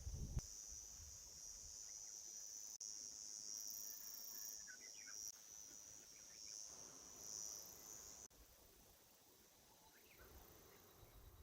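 Faint, steady, high-pitched chirring of night insects, which stops about eight seconds in.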